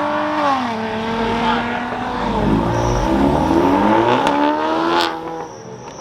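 A car engine revving hard as it accelerates away, its pitch climbing and then falling about half a second in, followed by more engine revving and sharp cracks near the end.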